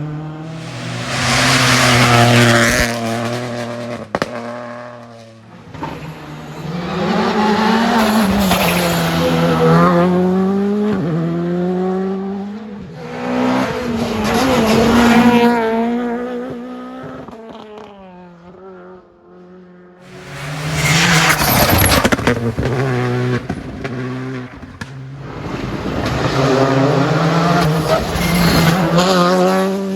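Rally cars driven hard past the stage side, engines revving up and dropping through gear changes, with tyre squeal. The sound swells and fades several times, with a brief lull about two-thirds of the way through.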